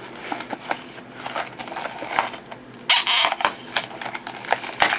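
Plastic and cardboard blister packaging of a diecast toy car being handled and opened: a run of irregular crackling clicks, with a louder rustling burst about three seconds in.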